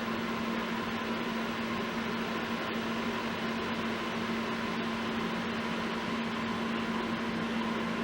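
Steady hum with an even hiss, like a fan or other small appliance running in a small room.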